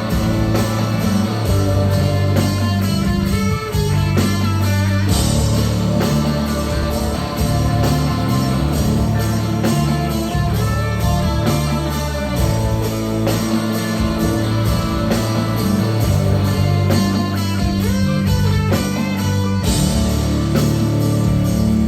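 Progressive rock band playing live: electric guitar over bass and a steady drum beat, in an instrumental passage.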